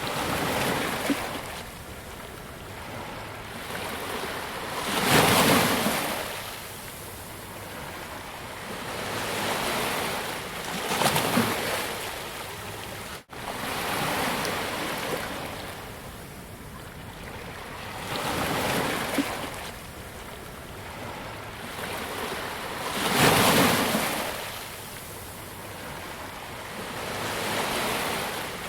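Ocean waves breaking on a beach, each surge swelling and fading every five to eight seconds over a steady wash of surf. There is a momentary dropout about halfway through.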